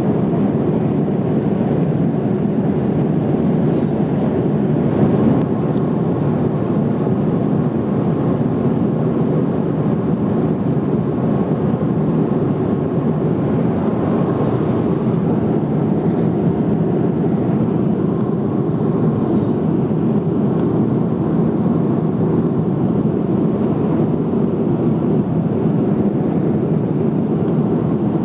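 Steady cabin noise inside a Boeing 787-9 in flight: an even low rush of engine and airflow noise that holds the same level throughout.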